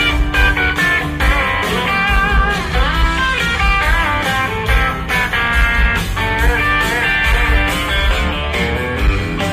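Live country band playing an instrumental passage: a lead electric guitar plays bending, sliding notes over bass and a steady drum beat.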